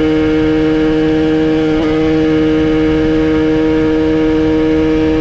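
80cc Minarelli AM6 two-stroke moped engine with a custom Kreidler exhaust, held at steady high revs: a loud, even buzz whose pitch stays level, with a brief hitch about two seconds in.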